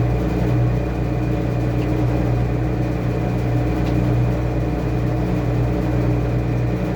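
Washing machine running with a steady low motor hum, with two faint ticks about two and four seconds in.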